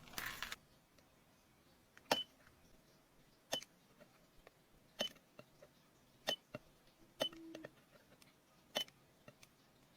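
Handheld battery spot welder firing weld pulses in manual mode: about six sharp snaps a second or so apart, each with a short high beep, as a nickel strip is spot-welded onto a lithium battery.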